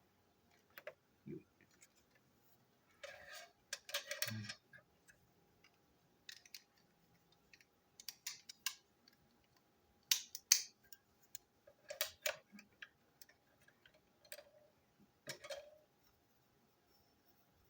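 Plastic toy train parts clicking and knocking at irregular moments as they are handled, pulled apart and fitted together.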